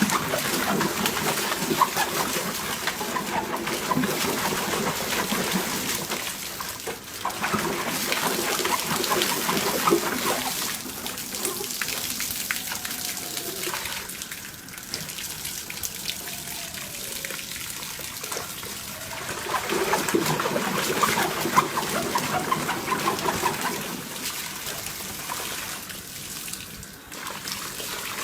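Water running and splashing continuously, like a tap or hose spraying, as a golden retriever plays in it.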